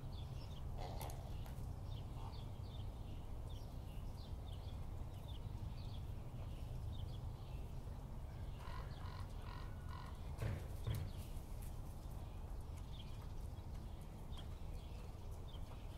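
Outdoor bird ambience: small birds chirping over and over with short high notes, above a steady low rumble. A short run of clucking calls comes about nine seconds in, followed by a couple of thumps.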